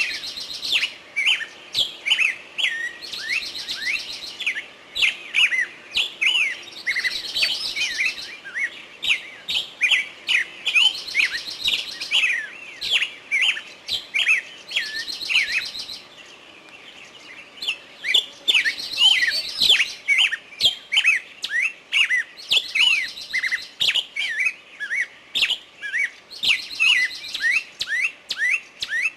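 Songbirds chirping rapidly and continuously, with a buzzy trill of even pulses returning every few seconds. The chirping eases off briefly about halfway through.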